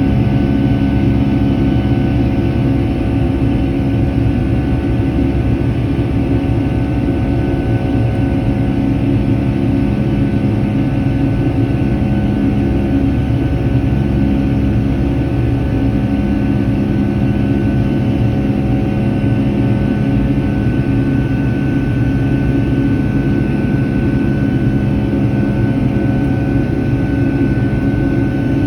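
Boeing 757 jet engines heard from inside the passenger cabin: a steady, loud drone with several steady humming tones over it.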